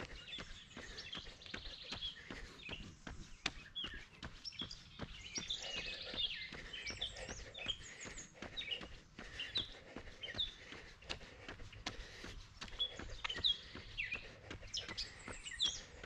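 Several birds chirping and singing, many short calls overlapping, over the evenly spaced footfalls of a runner.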